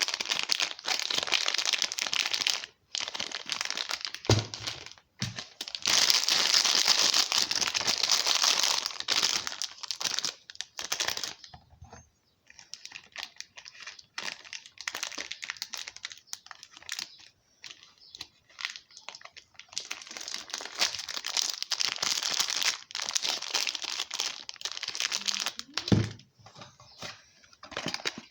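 Soap packaging crinkling and tearing as bars of soap are unwrapped by hand, in several spells of crackling. There is a dull thud about four seconds in and another near the end.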